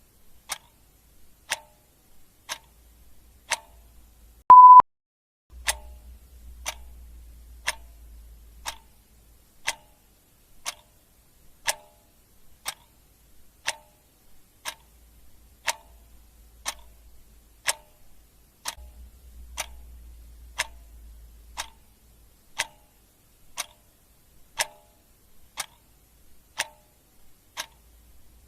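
Clock ticking steadily, about one tick a second. About four and a half seconds in, a single short electronic beep sounds, louder than the ticks.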